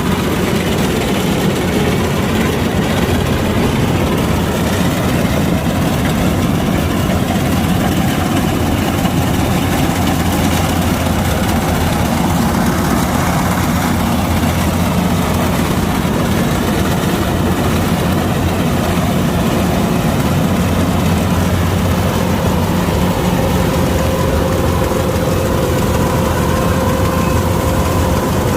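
Kubota DC-105X rice combine harvester's diesel engine running steadily with a heavy low drone. A faint whine comes in near the end.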